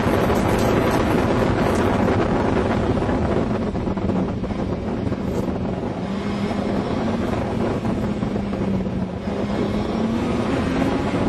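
Open-wheeled sports car's engine running at speed, heard over heavy wind buffeting on an onboard microphone. The sound eases about four seconds in, then the engine note climbs a little again near the end.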